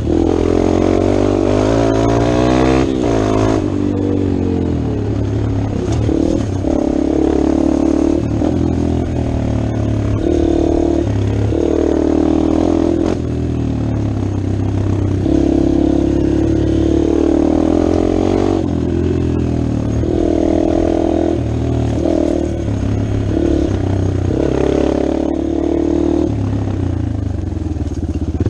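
Dirt bike engine under way, the rider opening and closing the throttle so that the engine note climbs and drops back again and again.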